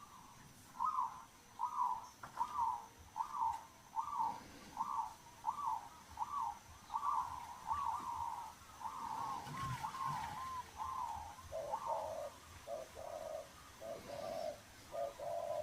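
A bird calling a long run of short, repeated, arched notes, about three every two seconds. In the last few seconds a lower-pitched series of notes takes over.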